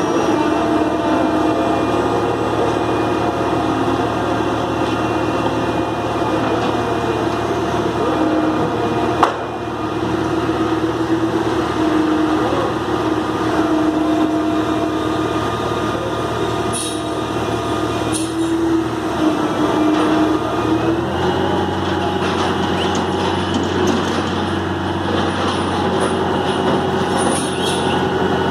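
Heavy diesel engine running steadily, its note shifting as the load changes about two-thirds of the way through, with one sharp knock about a third of the way in.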